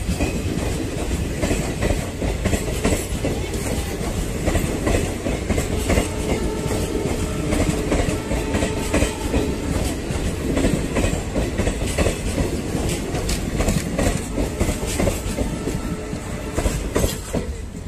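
Indian Railways passenger coaches rolling past close by: a steady rumble with the wheels clattering over the rail joints. It eases slightly near the end as the last coaches go by.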